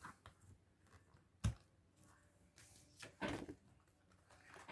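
Cards and envelopes being handled on a table: a sharp knock about a second and a half in, then a short rustle of handling.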